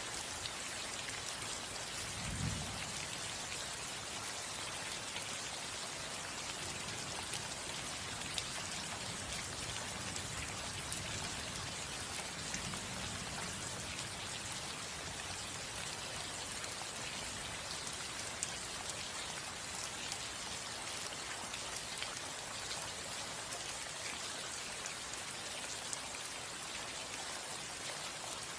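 Steady rain falling on a roof, with individual drops ticking against it. A brief low thump about two seconds in.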